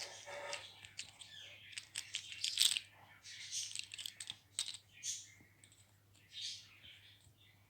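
Ringneck parakeet playing with its toys: irregular clicks and rattling, with short soft scratchy sounds between them.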